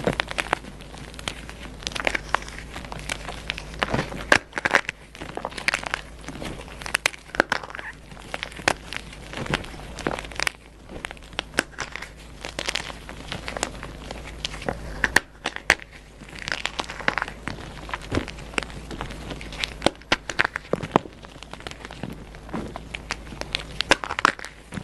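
Crunchy dyed gym chalk being crushed and crumbled, giving a dense run of irregular sharp crunches and crackles.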